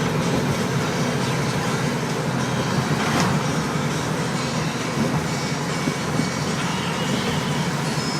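Steady engine and road noise of a classic car cruising at an even speed, heard from inside the cabin.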